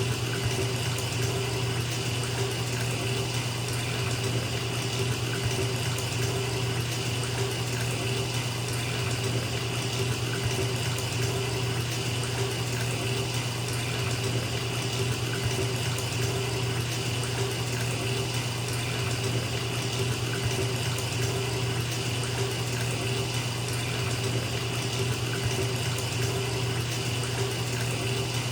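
Bathtub tap running steadily, water pouring into a filling tub, with a low hollow rumble under the rushing.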